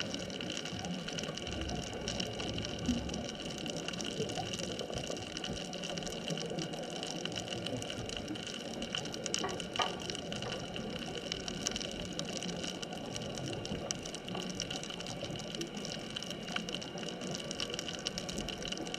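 Underwater ambient noise at a deep reef: a steady hiss with a fine, continuous crackle, heard through the camera's underwater housing.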